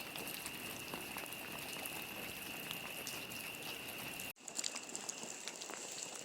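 Steady background noise with a constant high-pitched whine and faint crackling ticks. It cuts out abruptly about four seconds in and comes back with a brighter hiss.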